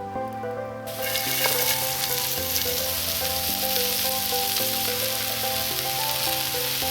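Food starts sizzling in a hot pan about a second in, a steady frying hiss, over background music.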